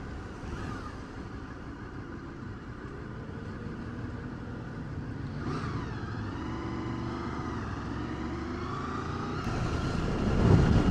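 Motorcycle running on the road, its engine note rising over the second half as it pulls, under steady rumbling road and wind noise. Plausibly the rider's own Honda VFR800 V4.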